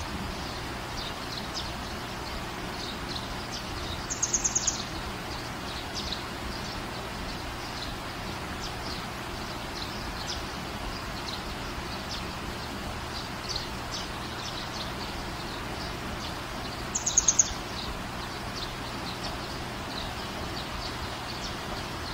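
Small birds chirping over a steady hiss, with short high chirps throughout and two louder quick trills, one about four seconds in and one near seventeen seconds.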